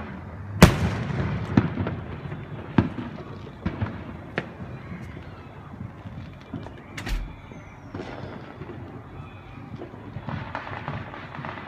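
Fireworks going off: a loud bang about half a second in, then a run of further bangs over the next few seconds and another sharp one about seven seconds in, with rumbling and crackling between them.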